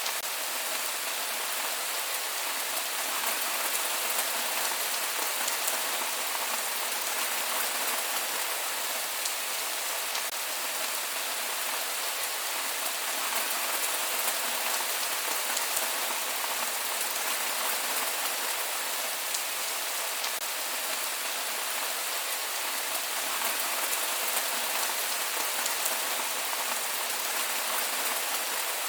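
Steady rain falling on surfaces, an even hiss with many small drop patters and no thunder.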